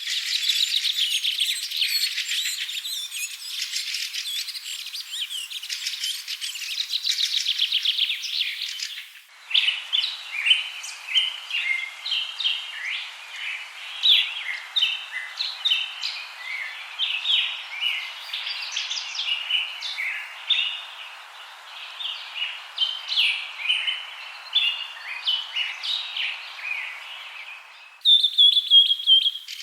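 Birds chirping and singing, in several recordings joined with abrupt cuts: dense overlapping chirps and trills for about nine seconds, then scattered separate chirps over a faint hiss, and near the end a rapid high trill.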